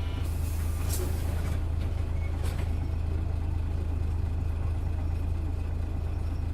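Hino Blue Ribbon bus diesel engine running with a steady low hum, with a burst of compressed-air hiss about a second in and a shorter, sharper air release about two and a half seconds in.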